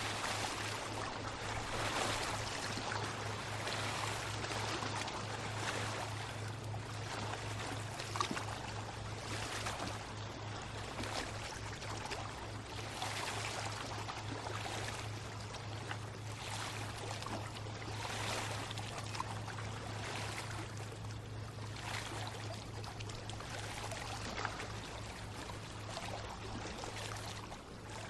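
Water trickling and splashing in a continuous flow, with small surges every second or so, over a steady low hum.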